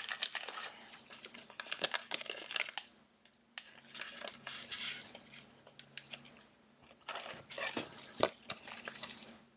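Plastic crinkling and rustling while trading cards and their packaging are handled, in three spells with short pauses between them.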